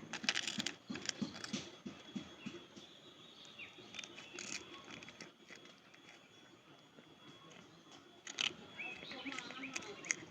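A cat chewing onion crackers: a quick run of sharp crunches in the first two seconds, scattered ones after, and another cluster of crunches near the end.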